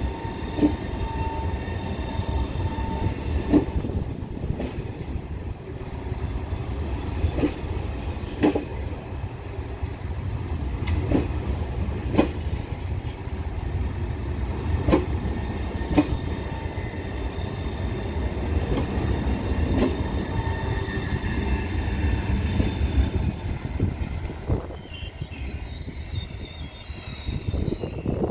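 Italo EVO ETR675 electric high-speed train running slowly past: a steady low rumble with sharp wheel knocks every second or two, often in pairs. A faint wheel squeal comes early, and the sound fades over the last few seconds as the train draws away.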